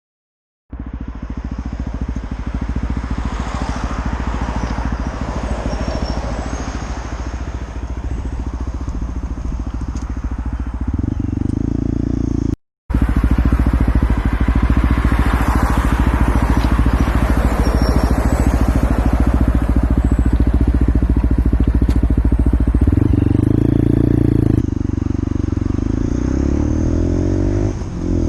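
LXR 125cc motorcycle's single-cylinder engine running on the move, with wind rushing over the microphone. The engine note changes about 11 seconds in and again near 23 seconds. The sound drops out completely for a moment near the middle.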